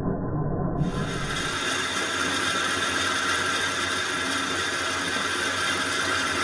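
Metal lathe running steadily: an even mechanical hum with hiss and no distinct strikes.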